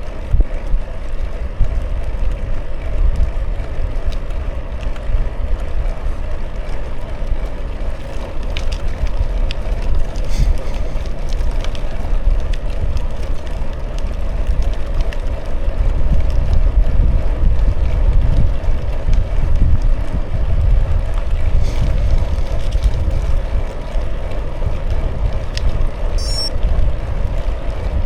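Wind buffeting the microphone in a steady low rumble over the hum of bicycle tyres rolling, with a short high chirping near the end.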